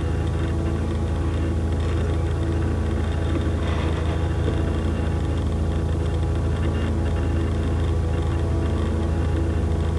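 Steady low droning hum with many held tones layered above it, holding level without a break.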